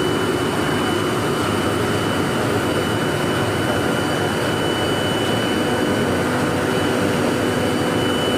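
Electric arc welding: the arc giving a steady, loud crackling hiss, with a thin high whine running under it.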